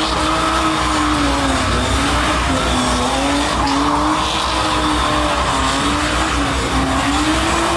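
A car held at high revs with its tires spinning and squealing, as in a burnout. The engine note wavers slowly up and down without a break.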